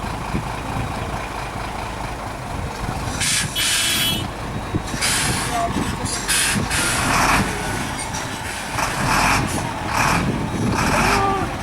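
Heavy truck engine running with a steady low rumble, broken by a series of short bursts of hiss. Voices can be heard.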